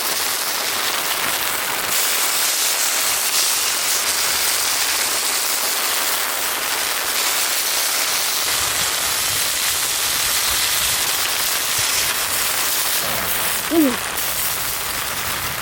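Steady heavy rain mixed with chicken steak sizzling as it cooks over a fire. Near the end comes one brief, loud sound that falls in pitch.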